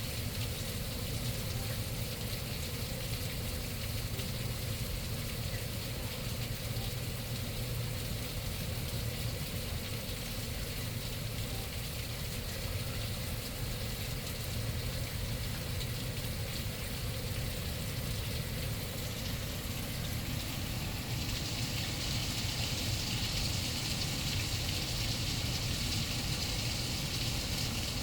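Steady rush of rain and running floodwater, growing hissier and slightly louder about three quarters of the way through.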